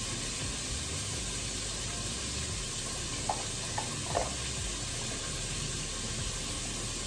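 Chicken pieces frying in hot oil, a steady sizzle, with a few brief faint clinks around the middle.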